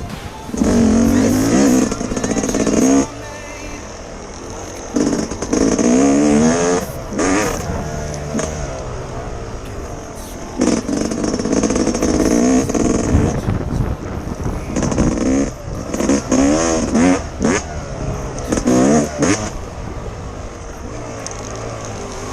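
Yamaha YZ250X two-stroke dirt bike engine revving hard in repeated bursts of a few seconds, its pitch climbing during each, with the throttle chopped and the engine dropping back between bursts.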